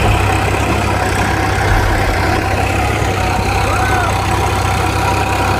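Steady vehicle engine and road noise, a constant low drone with a hiss above it.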